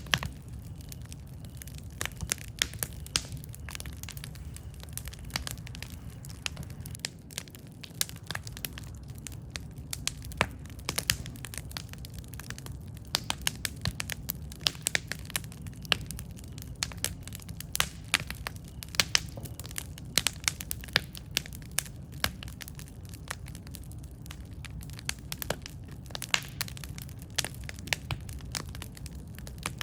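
Wood fire crackling steadily, with frequent sharp irregular pops and snaps over a low rumble of flame.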